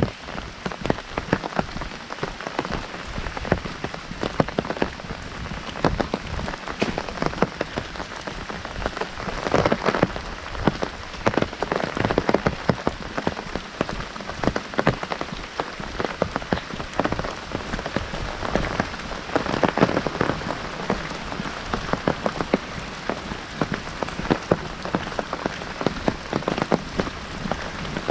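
Heavy rain falling on an umbrella held overhead: a dense, uneven spatter of drop hits that keeps up without a break.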